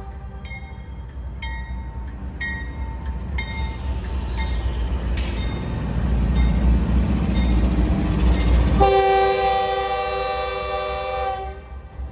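Norfolk Southern diesel freight locomotives passing close by: the bell rings about once a second while the engines' low rumble and wheel noise swell as the lead units go past. About nine seconds in, the horn sounds a loud chord for roughly two and a half seconds, then cuts off, leaving the rumble of the train rolling by.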